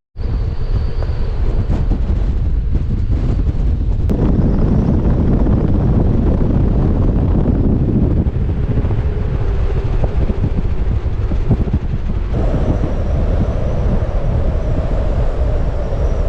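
Strong wind buffeting the microphone in a heavy low rumble, gusting harder from about four seconds in.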